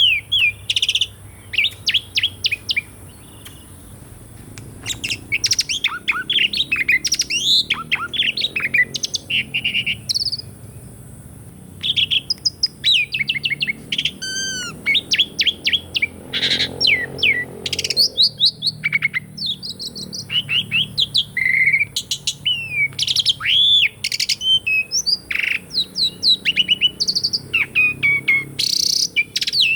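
Asian pied starling (jalak suren) singing: a varied, fast run of chattering notes and sweeping whistles in phrases, broken by short pauses a few seconds in and near the middle.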